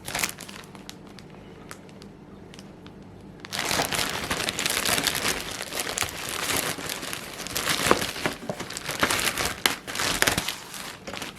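Crinkling and rustling of the packaging on a new leather tool belt being handled, in irregular crackly bursts that start about three and a half seconds in and die away near the end.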